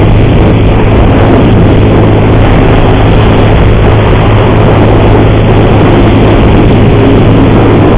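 Motorcycle under way on the road, its engine running steadily under a loud, even rush of wind and road noise. The rider says this engine has a horrible-sounding cam chain noise.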